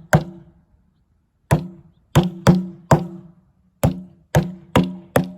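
Mini sledgehammer striking the metal shell of a water heater tank again and again, about nine blows, each a sharp clang with a short low ring. There is a pause of over a second after the first blow, then the strikes come roughly two a second.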